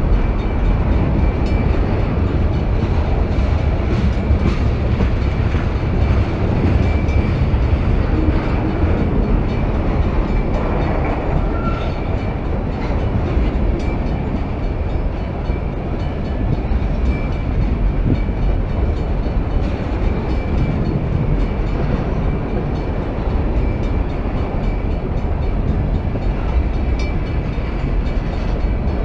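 Freight train rolling by: a steady, loud rumble of wheels on the rails with faint clicks, running evenly throughout.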